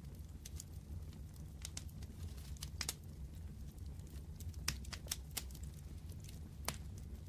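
Fireplace fire crackling: irregular sharp pops and snaps over a low steady rumble, with a few louder pops in the second half.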